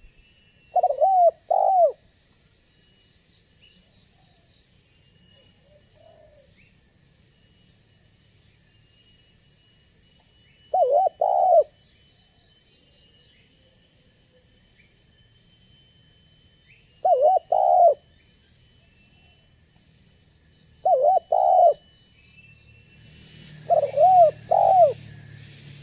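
Spotted dove (tekukur) cooing: five short calls of two quick notes each, spaced several seconds apart, each note rising and falling.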